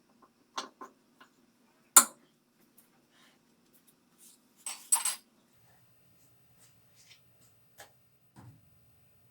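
Scattered clicks and knocks of tools and metal parts being handled during washing-machine repair, with one sharp knock about two seconds in and a ringing metallic clink about five seconds in.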